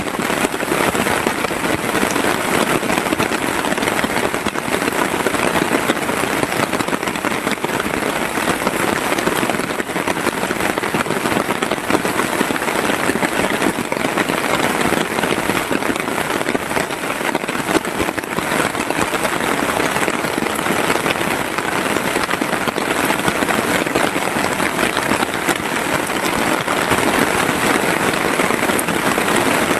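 Heavy rain falling steadily, a dense patter of drops without let-up.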